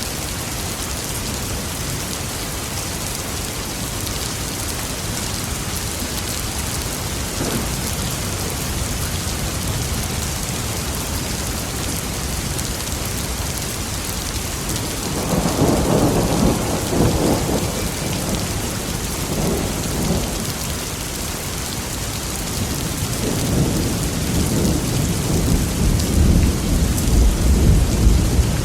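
Steady heavy rain with rolling thunder: one long rumble swells about halfway through and fades, and a second, deeper one builds toward the end.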